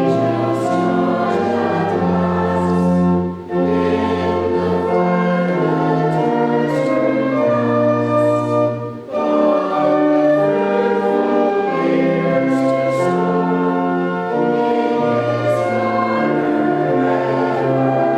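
Church congregation singing a hymn with organ accompaniment: held chords that change every second or so over a deep bass note, with two brief breaks between lines.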